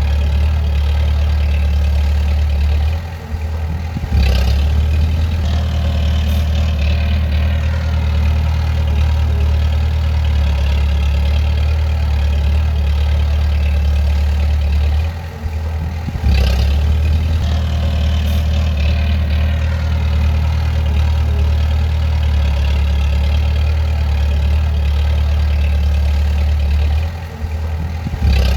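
Bulldozer's diesel engine running with a deep steady drone. Three times, about every twelve seconds, it drops off briefly, then comes back up with a short knock.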